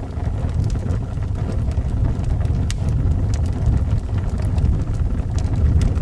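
Wind blowing with a steady low rumble, with the scattered sharp crackles and pops of a fire burning in a fireplace; one louder pop a little under three seconds in.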